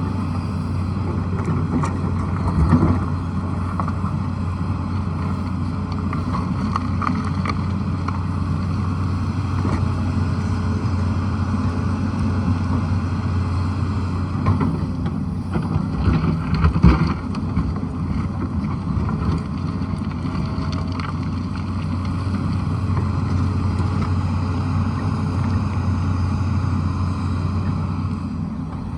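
Tata Hitachi excavator's diesel engine running steadily under work, with a few knocks as it digs, the loudest about 17 seconds in.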